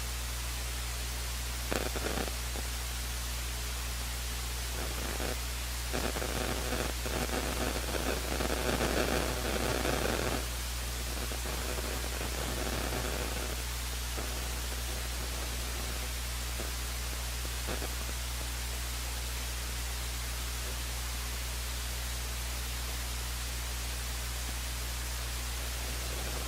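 Steady electrical hum and hiss from an idle broadcast audio feed, with a faint, indistinct louder stretch about a third of the way in.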